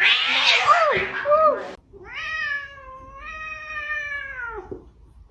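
A cat meowing: a few short rising-and-falling meows, then about two seconds in one long drawn-out meow held for nearly three seconds before it falls away.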